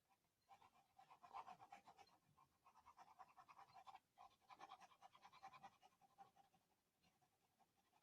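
Faint, rapid back-and-forth strokes of a pencil shading on paper, in two runs with a short break about halfway.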